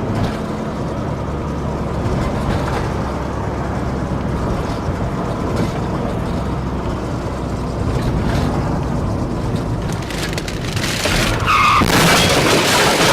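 Loud car and road noise with a steady low rumble, growing louder and harsher near the end, with a brief tyre squeal.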